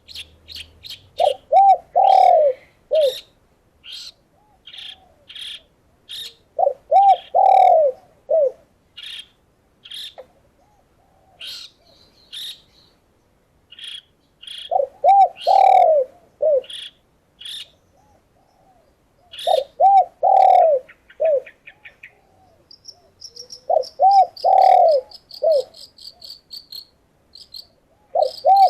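Doves cooing in loud phrases of several arched notes, repeated every few seconds, over the short high chirps of small birds. A fast, high, insect-like trill joins in near the end.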